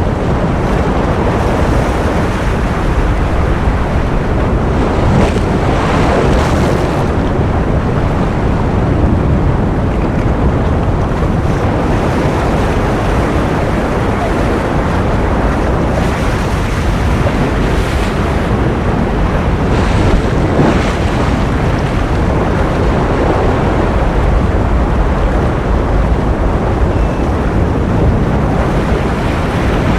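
Ocean surf: a steady, continuous rush of waves, heaviest in the low end, with a few brief brighter washes as waves break.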